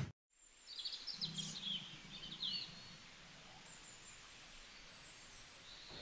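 Faint birds chirping, a few quick high chirps from about a second in, over a faint low background hum.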